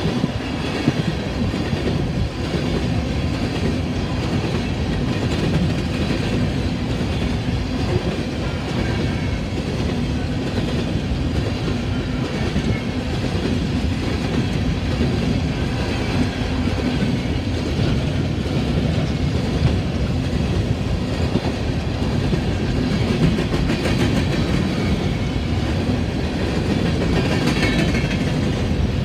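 BNSF freight train of open-top hopper cars rolling steadily past: a continuous rumble of steel wheels on rail with clickety-clack as the wheels cross the rail joints.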